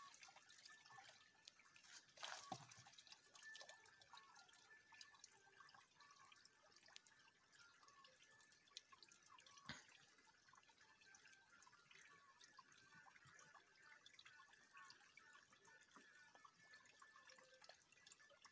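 Near silence: faint scattered ticks and clicks over a faint, steady high-pitched tone.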